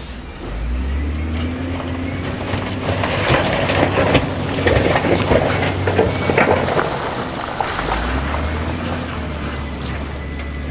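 Heavy diesel earthmoving machinery running with a steady low drone, while a load of stones clatters and tumbles for several seconds in the middle.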